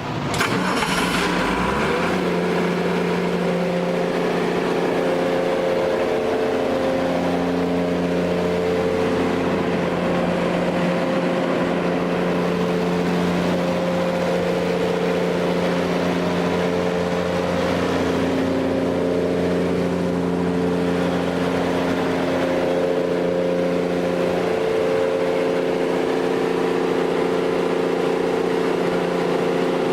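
Kohler 45 kW diesel generator set's inline six-cylinder diesel engine starting up, then running steadily at a constant governed speed.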